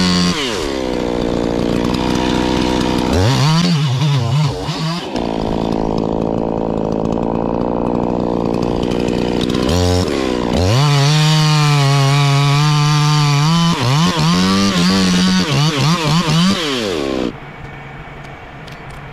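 Two-stroke chainsaw engine revving up and down repeatedly, held at high speed for a few seconds at a time. It falls away sharply near the end, leaving a much quieter sound.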